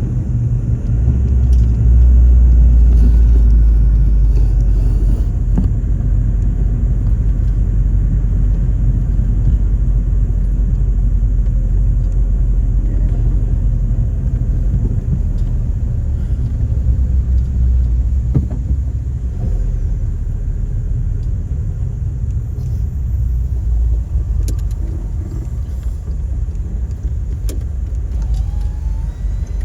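A car being driven: a steady low rumble of engine and road noise, heavier for a couple of seconds near the start, with a few faint clicks.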